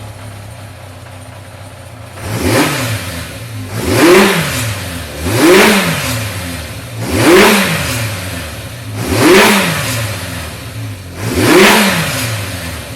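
1986 Yamaha FZ600's air-cooled inline-four engine running, freshly revived after about 20 years without running. It idles for about two seconds, then the throttle is blipped six times, the revs rising and falling back toward idle each time.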